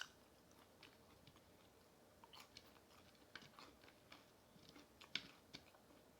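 Faint close-up chewing of crispy boneless fried chicken: irregular small crunches and mouth clicks, with a few sharper ones about two and a half and five seconds in.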